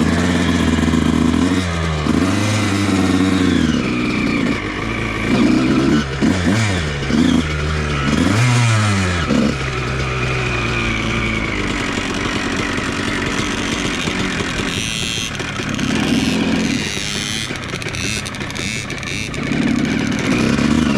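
Motocross bike engine revving up and down several times, then running more steadily from about ten seconds in.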